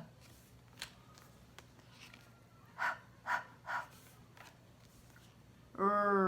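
An adult's voice sounding isolated phonics letter sounds: three short breathy, unvoiced sounds in quick succession, then a longer voiced sound falling in pitch near the end.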